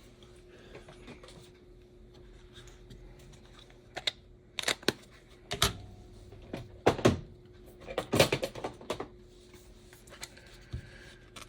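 Small parts of an HO-scale slot car chassis clicking and tapping as they are handled and fitted. A scatter of short, sharp clicks starts about four seconds in and is densest near the end.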